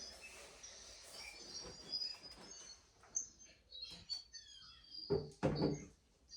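Small birds chirping and twittering in short, high calls. About five seconds in, two heavy knocks sound close together.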